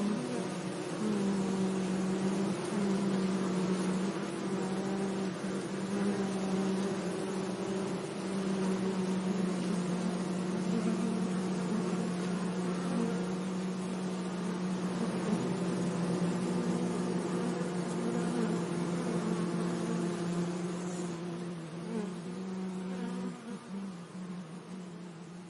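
A bee buzzing: one steady low hum that wavers slightly in pitch and fades away over the last few seconds.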